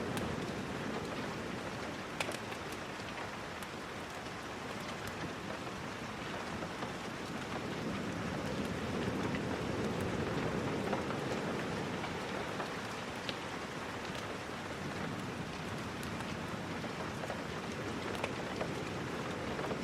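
Steady rain, an even hiss that slowly swells and eases, with a few scattered sharp ticks.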